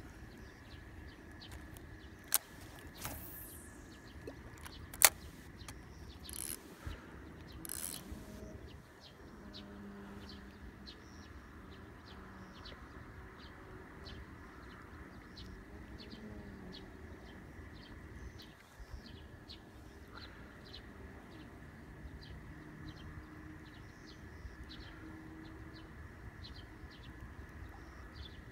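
A bird chirping over and over, about twice a second, with two sharp clicks and a few short rustles in the first several seconds.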